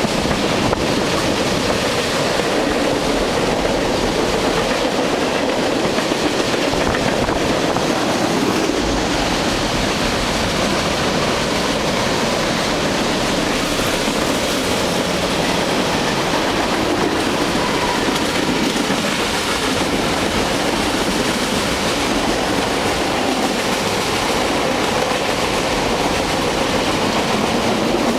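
A train passing on the tracks below, with its cars rolling by in one long, steady run.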